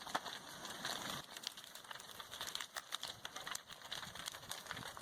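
Irregular crackling and popping of a lava flow burning through a wooden house, quiet over a faint hiss.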